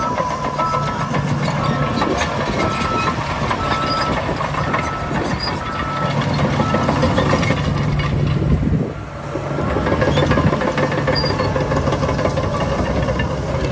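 Heavy diesel engines of a bulldozer and a dump truck running under load, with a truck's reversing beeper beeping steadily for about the first five seconds. The engine noise dips briefly past the middle, then rises again.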